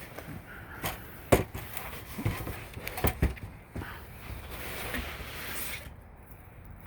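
Scattered knocks and taps, with a stretch of rustling about two-thirds of the way through, as heavy-duty pet screen material is handled and laid over an aluminium screen door frame.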